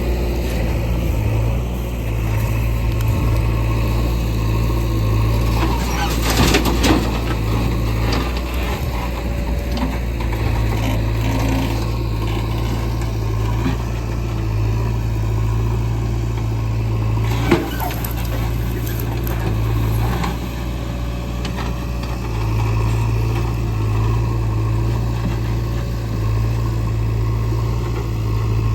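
Diesel engine of a backhoe loader and tractor running steadily at a low, even drone while loading mud. A few sharp knocks come about six to seven seconds in, and one louder knock comes about seventeen seconds in.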